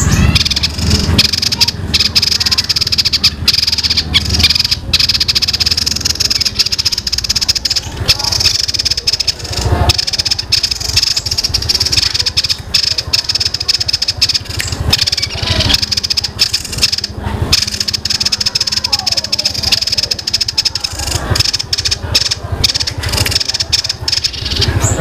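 A small songbird singing a dense, sparrow-like chattering song of long, tight rolling trills without a break, high-pitched and steady.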